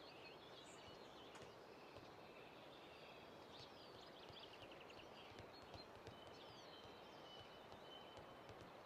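Faint outdoor ambience with small birds chirping and trilling now and then over a low steady hiss.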